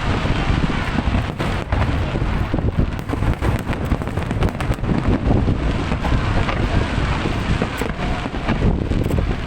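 Fireworks display: a steady rumble of shell bursts with many sharp cracks and crackles, and wind buffeting the microphone.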